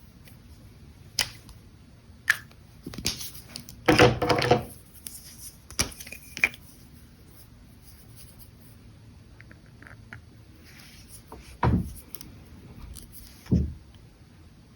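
Pens and caps handled on a drawing desk: sharp clicks and taps, a longer rustle and knock about four seconds in, and two dull knocks near the end, with light brush pen scratching on paper between them.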